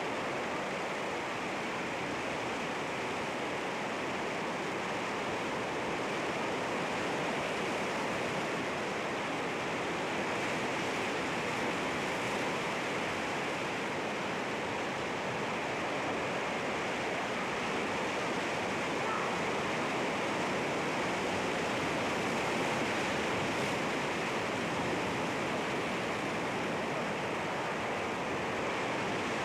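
Sea waves washing against rocks, a steady rush of surf with no distinct breaks standing out.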